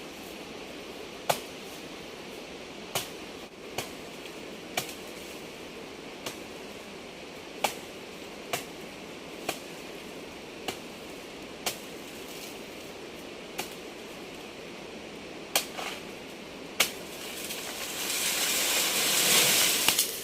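Sharp, separate knocks, roughly one every second or so at an uneven pace, over a steady hiss; a louder rustling swell comes in near the end.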